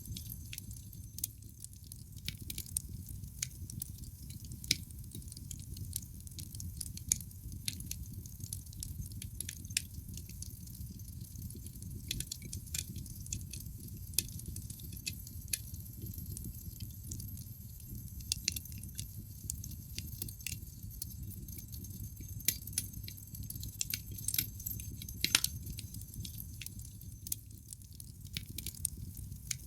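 Wood fire crackling in a fireplace: irregular sharp pops and snaps from the burning logs over a steady low rumble of the flames, with a few louder snaps scattered through.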